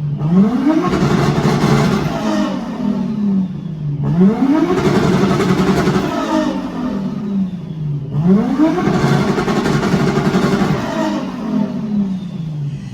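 Modified car engine being revved hard three times, about four seconds apart: each rev climbs quickly, holds high for a second or two, then falls back to idle.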